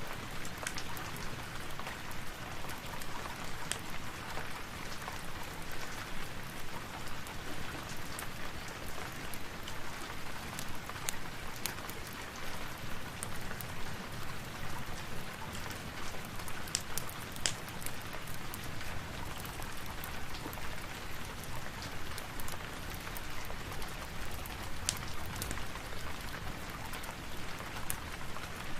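Steady rain falling, an even hiss with scattered sharp drips and ticks throughout.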